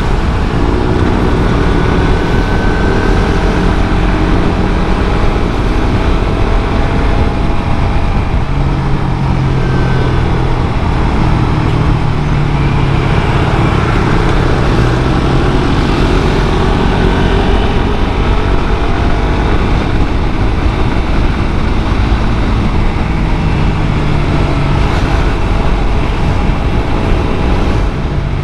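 Suzuki GSX-R150's single-cylinder engine running through its stock exhaust while riding, its pitch slowly rising and falling with the throttle.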